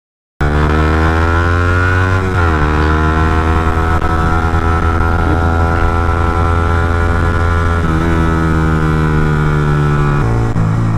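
Single-cylinder engine of a Suzuki GSX-R 125 motorcycle running under way. It cuts in suddenly just after the start, holds a steady pitch, and its pitch dips and recovers about two seconds in, with smaller changes near eight and ten seconds.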